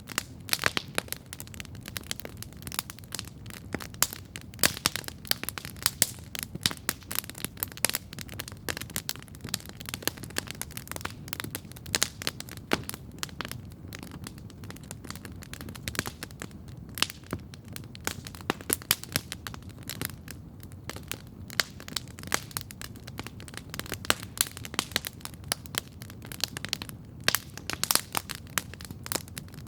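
Campfire crackling steadily: irregular sharp pops and snaps, several a second, over a low steady rumble.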